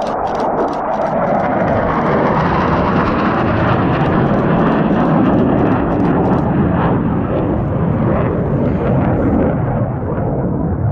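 F-16 fighter jet flying past, its jet noise building over the first few seconds and then slowly fading. A camera shutter clicks in rapid bursts through the first half.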